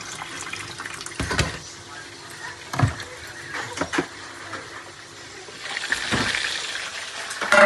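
Kitchen cooking sounds: a few sharp knocks of pots and utensils, then a hiss of food frying in hot oil that swells up about six seconds in.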